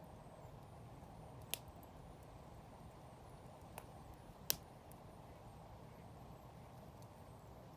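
Wood fire burning with a faint low rush and a few sharp pops, three in all, the loudest about four and a half seconds in.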